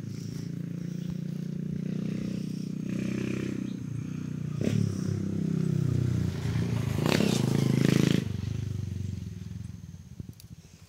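A small engine running, growing louder to a peak and then fading away near the end, with a sharp knock about halfway through.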